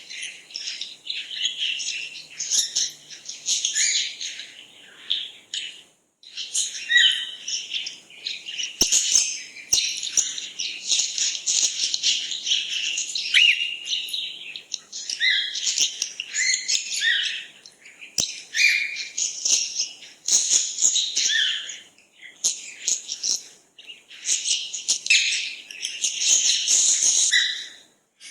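A chorus of many small birds chirping and twittering over one another, dense and high-pitched, with a few brief lulls.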